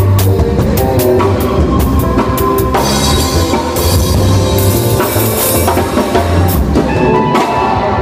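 A live band plays instrumentally at a sound check, led by a drum kit with a steady beat and sustained low bass notes. Cymbals wash in about three seconds in.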